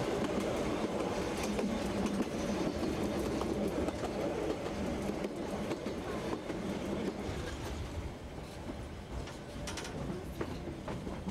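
Metre-gauge passenger train carriage rolling along the track: a steady rumble of wheels on rail with scattered clicks of the rail joints, easing off a little near the end.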